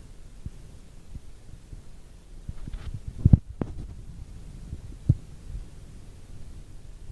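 Low thunder rumble with a few short, deep thumps, the loudest a little under halfway through and another about two-thirds of the way through.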